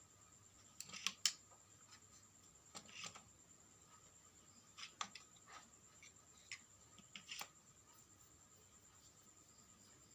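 A few scattered small clicks and taps, the loudest pair about a second in, over a faint steady high-pitched whine.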